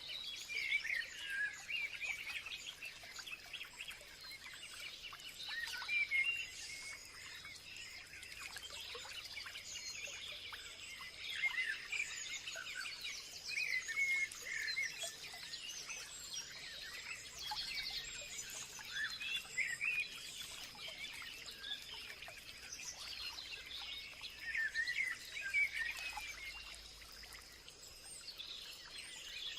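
Several birds chirping and calling over one another in quick, overlapping phrases, with a faint steady high-pitched tone underneath.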